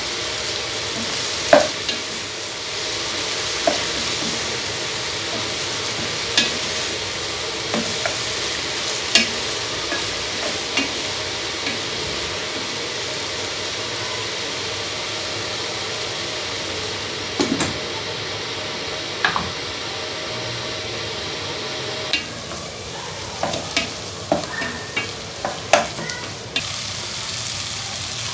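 Beef, tomatoes and onions sizzling steadily in a pot as a wooden spoon stirs them. Scattered knocks and scrapes of the spoon against the pot come through the sizzle, more often near the end.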